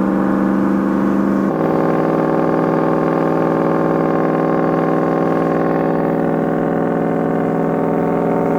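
Toyota Tundra's engine running at a steady high speed while driving. About a second and a half in, its pitch steps down once, as on a gear change.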